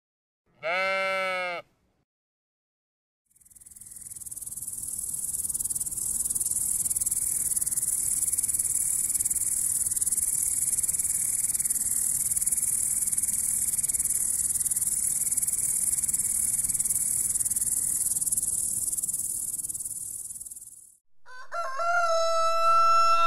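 A sheep bleats once near the start. After a short silence comes a long, steady, high-pitched insect buzz of grasshoppers stridulating, lasting about seventeen seconds. A rooster starts crowing near the end.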